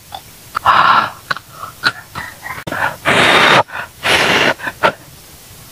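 A person's hissing breaths drawn and pushed through an open mouth, three long ones about a second, three seconds and four seconds in, with small mouth clicks and smacks between: panting from the burn of super-spicy grilled food.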